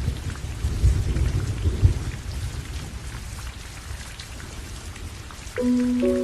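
Heavy rain falling steadily, with a low rumble of thunder in the first couple of seconds. Held music notes come in near the end.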